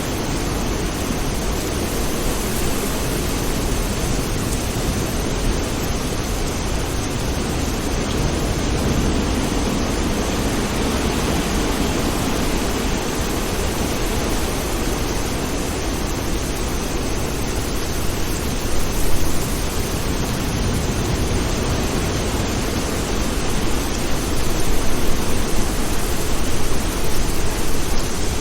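Steady, heavy rain. Louder swells of distant thunder rumble up in the second half.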